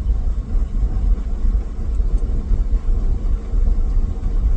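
Ford F-350 dump truck with a carbureted engine chugging along at low speed, a steady low rumble of engine and road heard from inside the cab.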